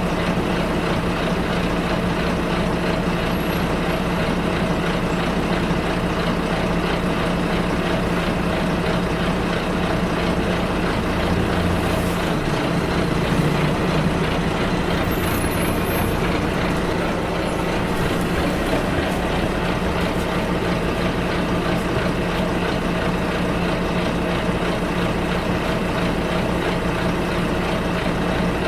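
Bus engine and road noise heard from inside the cabin during the ride: a steady drone with a brief change in the engine note about halfway through.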